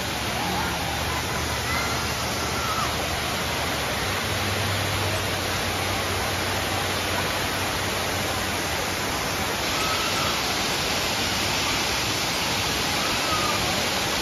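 Steady rushing of a waterfall, an even hiss of falling water that grows a little brighter about ten seconds in.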